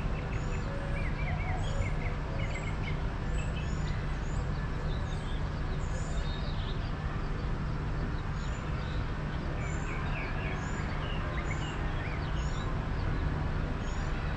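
Small birds chirping: many short, high chirps and twitters, some in quick runs, over a steady low rumble of street background noise.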